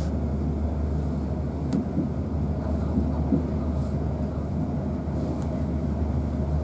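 Cabin noise inside a Class 450 Desiro electric multiple unit running at speed: a steady low rumble of the wheels on the rails, with a single sharp click about two seconds in.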